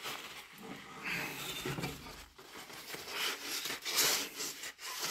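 Kitchen paper rubbing over the glass door of a wood-burning stove, wiping off oven cleaner and loosened soot, in irregular swishing strokes.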